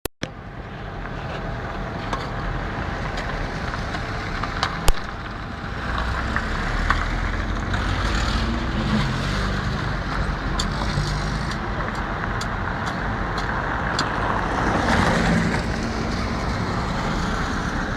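Motor vehicle running with a steady rumble and road noise, with scattered sharp clicks and one loud knock about five seconds in.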